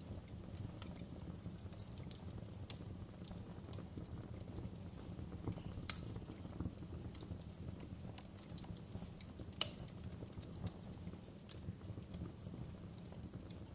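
Wood fire crackling in a fireplace: a steady low rumble of burning with irregular sharp pops and snaps, two of them louder, a little before halfway and again about two-thirds of the way through.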